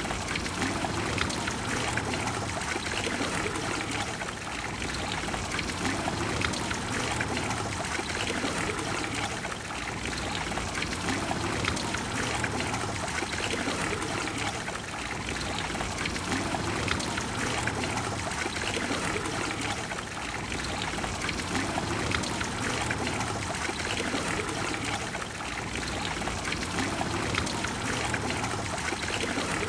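Water from the Trevi Fountain falling and splashing into its basin with a steady, even rush.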